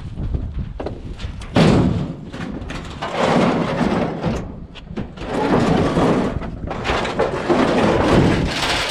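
Scrap being handled: repeated thumps and rattling clatter that come in four noisy bursts of a second or two each, with sharp knocks in between.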